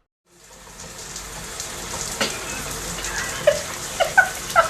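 Steady hiss, with one click about two seconds in, then a parrot's short chirping calls repeating over the last second and a half.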